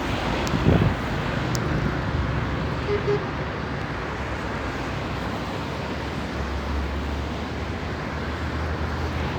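Outdoor street noise: steady traffic hum with a brief low thump about a second in, and a low engine drone from a vehicle in the second half.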